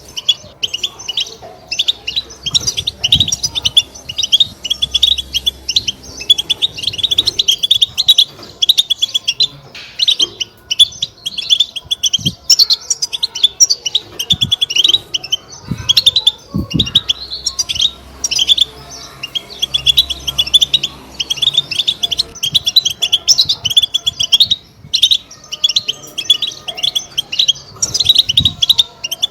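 European goldfinches twittering in a fast, unbroken chatter of high chirps (the 'batbata' call), with only brief pauses.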